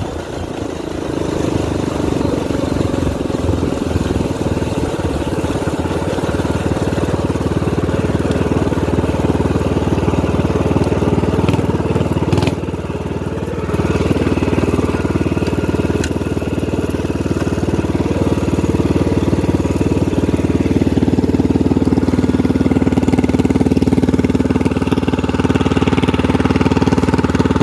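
Minibike's small engine with a straight-pipe exhaust running steadily, with a fast, even exhaust beat. It drops briefly about halfway through, then comes back and runs a little louder toward the end.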